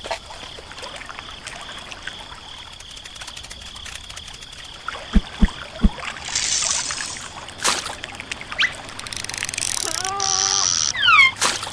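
A string of added cartoon sound effects over a faint steady background: three quick low thumps about five seconds in, a short hiss, a sharp click, then a wavering tone and quick falling whistles near the end.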